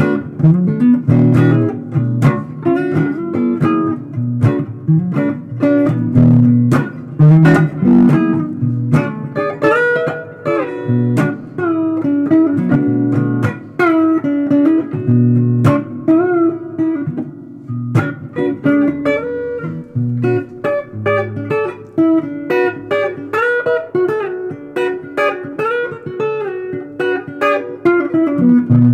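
Guitar improvising a blues line: plucked single notes and chords, with some notes bent in pitch.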